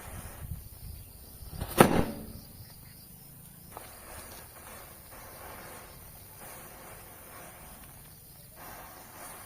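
A single sharp, loud pop about two seconds in, ringing briefly, with a few soft thuds just before it and faint outdoor background noise otherwise.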